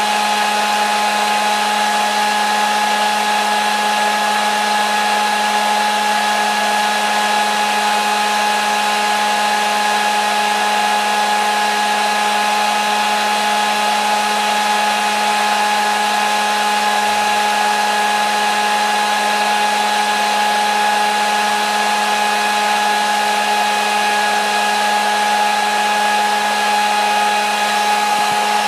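Hair dryer running steadily: an even rush of blown air over a constant motor hum with a few steady whining tones, never changing speed.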